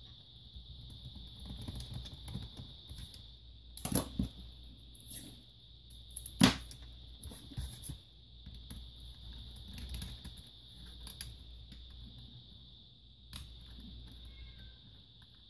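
Irregular clicks and taps of a small screwdriver and screws against a laptop's plastic case as the case screws are loosened, with a sharper knock about four seconds in and the loudest about six and a half seconds in. A faint steady high whine runs underneath.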